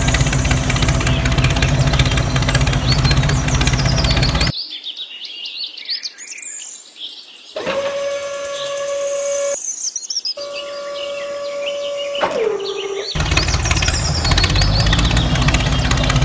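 Steady engine-like running noise, broken for about eight seconds in the middle by bird chirping and then a steady whine that drops in pitch as it stops.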